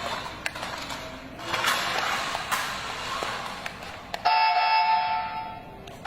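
Clicks and rustling handling noise, then about four seconds in a steady electronic chime tone sounds suddenly for about a second and a half and fades away.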